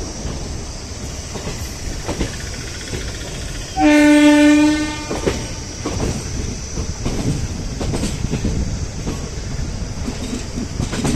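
Passenger train running, its wheels clattering over the rails. The locomotive horn sounds once for about a second, about four seconds in.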